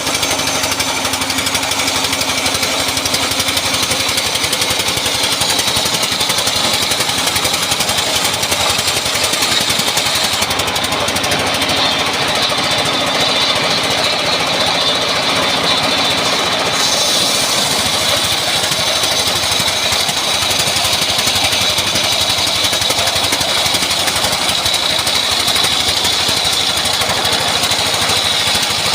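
Engine-driven saw running steadily while cutting teak to 6x16 size: a fast, even mechanical beat with a high steady whine above it.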